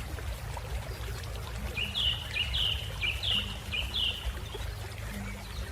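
A bird calling a quick run of about six short, falling chirps about two seconds in, over a steady low background noise.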